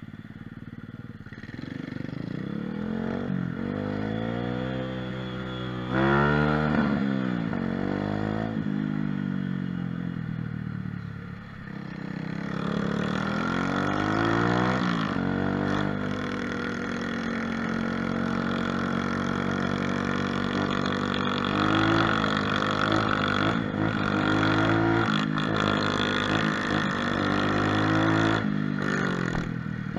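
Mini moto (pit bike) single-cylinder engine under way, its pitch rising as it accelerates and dropping at each gear change. It eases off briefly about 11 seconds in, then pulls again and keeps running with smaller rises and falls.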